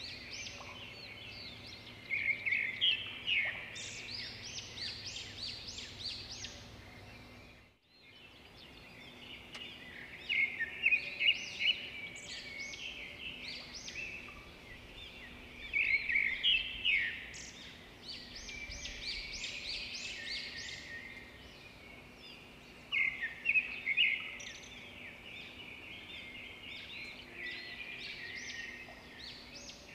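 Birds chirping: rapid runs of short, high calls that come in louder bursts every several seconds, over faint outdoor background noise. The sound drops out briefly about eight seconds in.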